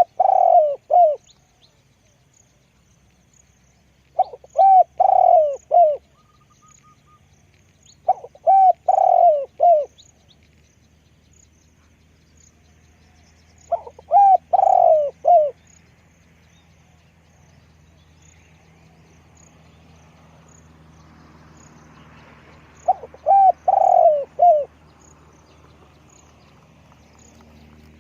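Spotted dove cooing: five phrases of four or five throaty coo notes each, every phrase lasting under two seconds, with pauses of about three to eight seconds between them.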